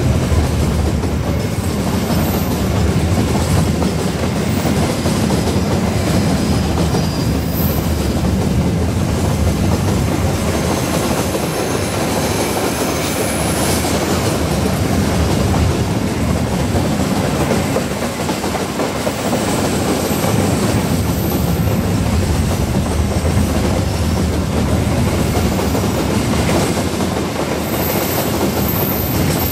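Long train of steel coal wagons rolling past on a curve: the steady rolling noise of steel wheels running on the rails, with no break.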